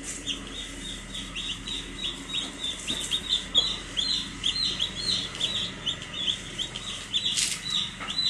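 Baby chicks peeping: a dense, continuous run of short high chirps, several a second, each falling in pitch.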